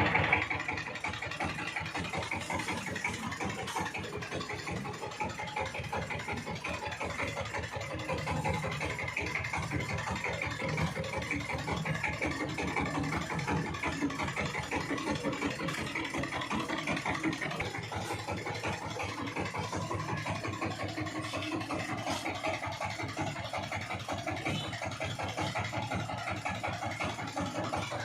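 Power tiller's diesel engine running steadily, an even, rapid chugging.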